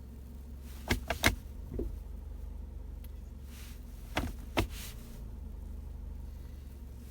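A car idling with a steady low hum, as the gear selector of its Jatco JF016E CVT is shifted between drive and reverse. About a second in comes a cluster of sharp clicks, then a duller knock just before two seconds in: the jolt the owner hears when the transmission engages reverse. Two more clicks come a little after four seconds in.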